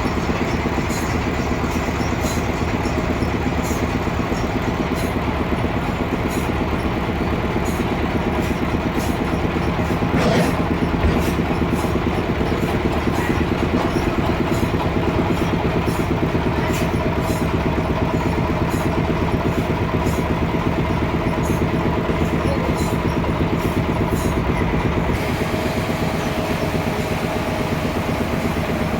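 Sawmill machinery running steadily under power, with a light tick about once a second and a single sharp knock about ten seconds in.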